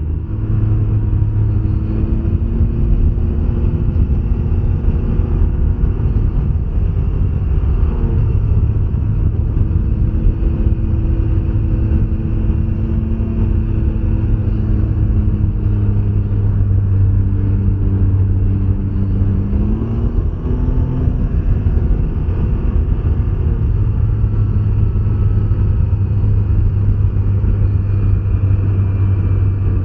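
Can-Am Ryker 900 three-wheeler's three-cylinder Rotax engine running steadily at road speed, under a constant low rumble of wind and road noise. The engine note shifts now and then and climbs briefly about twenty seconds in.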